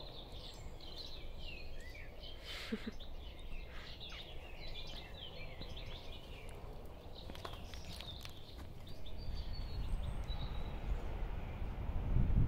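Birds chirping and singing, many short overlapping calls, over a low rumble that grows louder in the last few seconds.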